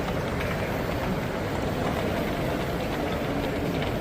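Steady background hubbub of a busy exhibition hall, with no single sound standing out.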